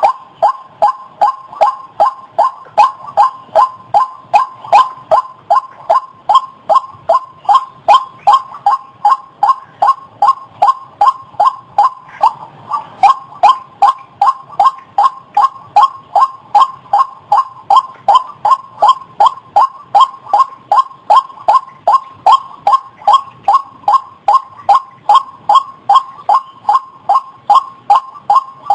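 White-breasted waterhen calling: one short, loud, pitched note repeated monotonously about two and a half times a second, without a break.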